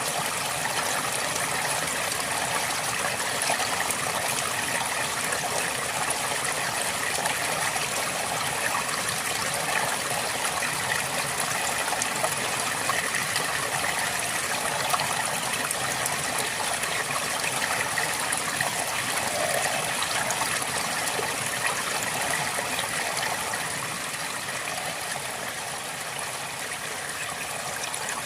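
A river flowing steadily over rocks: continuous rushing and babbling water, a little softer near the end.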